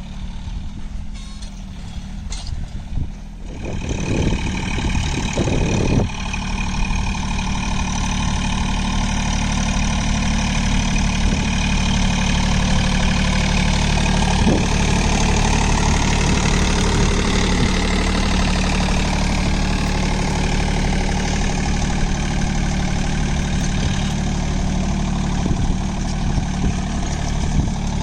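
John Deere 3028 EN mini tractor's three-cylinder diesel engine running steadily under load while pulling a ridger in high second gear. It grows louder over the first six seconds or so, then holds steady.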